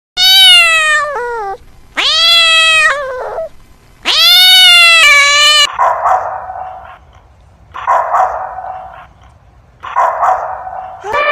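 A domestic cat meowing three times, long drawn-out meows, each rising and then falling in pitch. Then come three shorter, rougher, noisier calls, about two seconds apart.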